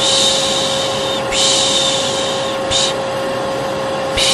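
Vacuum cleaner running with a steady motor whine, overlaid by repeated 'shh' shushing, the Turkish 'piş piş' used to lull a baby. Two long shushes, a short one, a gap of about a second, then another shush begins near the end.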